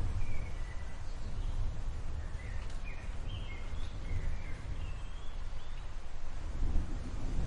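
Storm ambience: a steady low rumbling noise, with small birds giving a string of short chirps over it through the first two-thirds.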